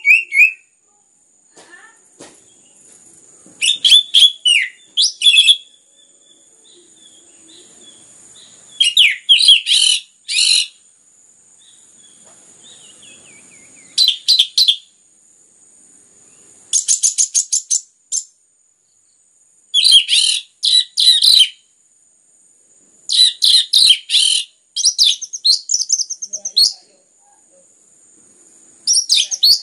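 Orange-headed thrush (anis merah) singing in full song: loud bursts of rapid, high chirping phrases, each lasting one to two seconds, separated by pauses of a few seconds. A faint steady high tone runs underneath.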